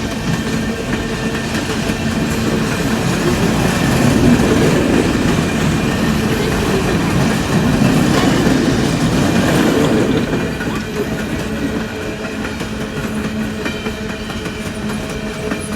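Coal train cars rolling past, wheels clattering and rumbling on the rails, swelling louder twice before easing off near the end.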